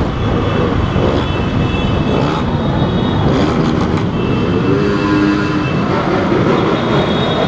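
Several motorcycle engines revving hard: a loud, continuous mechanical din with changing pitched tones over it.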